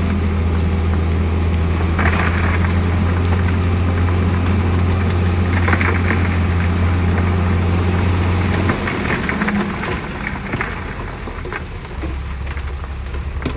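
Heavy diesel engine of earthmoving machinery running steadily under load, with short metallic clanks and scrapes about two and six seconds in and again around eight to ten seconds. The engine note drops about nine seconds in and runs lower and quieter after that.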